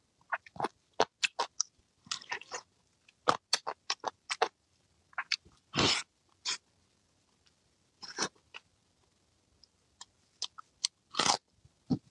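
Close-miked mouth sounds of someone biting and chewing braised pork on the bone: irregular short wet smacks and clicks, broken by a few longer, noisier bursts.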